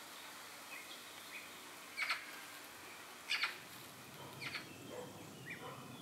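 Wild birds calling: a series of short, sharp chirps, three louder ones spaced a little over a second apart with fainter ones between, over a steady background hiss.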